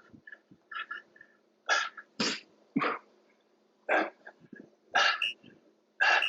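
A man breathing hard in sharp, forceful huffs about once a second, exerting himself near the end of a high-intensity cardio interval.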